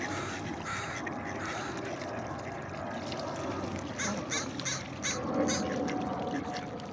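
Waterfowl calling, with a quick run of short calls about four seconds in.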